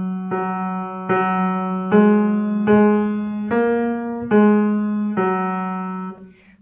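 Piano played with one finger: a simple melody of single notes, about one every second, each struck and left to ring and fade before the next.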